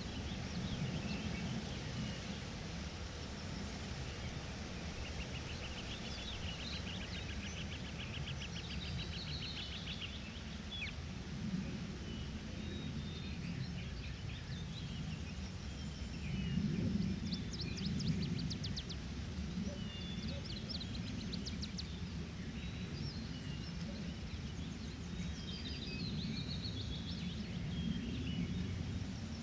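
Forest ambience: several birds chirping and singing, including a fast trill about a quarter of the way in and rapid ticking calls a little past halfway, over a steady low rumble.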